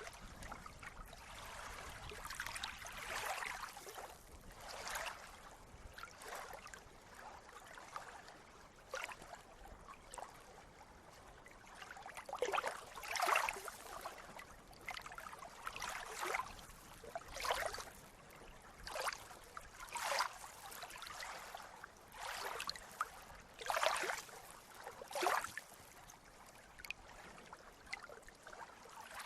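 Water lapping and splashing in short, irregular splashes, several a second over a steady wash, like small sea waves breaking against a shore.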